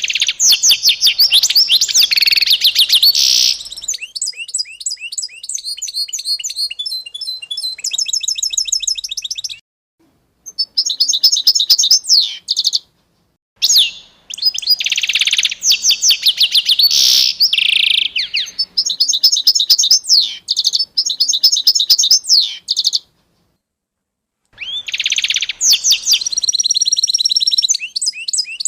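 Songbirds chirping and trilling in quick, high-pitched runs of repeated notes, with the song cutting off to dead silence three times between runs.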